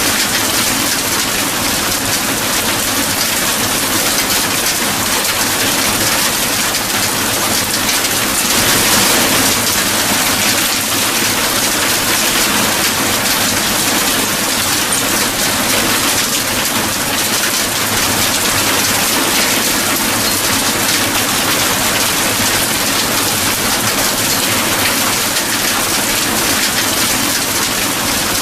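Steady heavy rain, an even hiss of many drops falling on surfaces, swelling slightly about eight seconds in.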